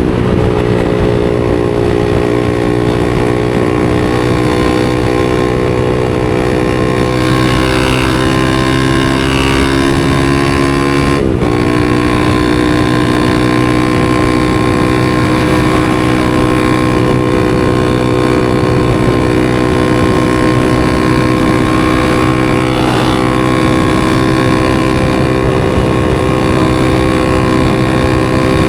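A 250 cc supermoto motorcycle's engine running under way at fairly steady revs, its pitch drifting slowly. The engine note breaks for a moment about eleven seconds in, then carries on steadily.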